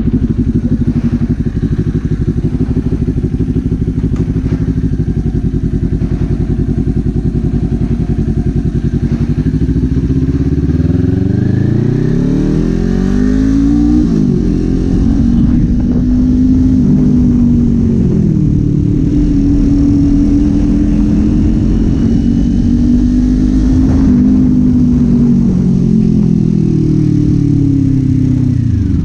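Kawasaki Z400 parallel-twin engine and exhaust running at low revs for about ten seconds, then revving up with rising pitch, dropping sharply at a gear change about fourteen seconds in, holding a steady speed, and falling away near the end as it slows.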